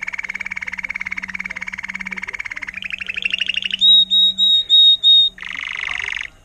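Timbrado canary singing a phrase: a fast rolling trill, then a run of notes rising in pitch, five loud clear whistled notes, and a short buzzy roll that breaks off just before the end.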